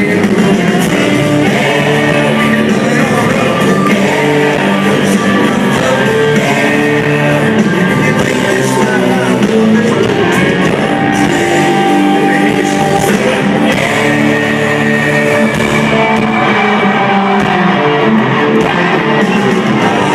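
A live country-rock band playing loudly, with electric guitars and a lead singer.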